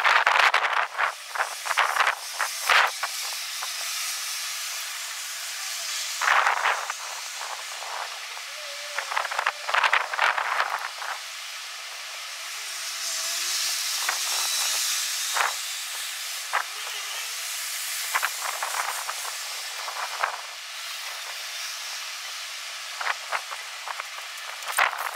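Strong gusty wind: a steady hiss that swells into louder irregular gusts every few seconds.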